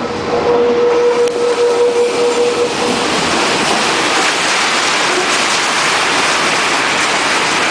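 Rack-railway railcar running along the track: a steady rumble and rushing noise of the moving train, with a steady whine that fades out about three seconds in as the rushing grows louder.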